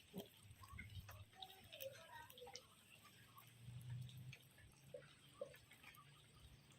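Near silence: faint scattered small clicks and ticks over a low hum.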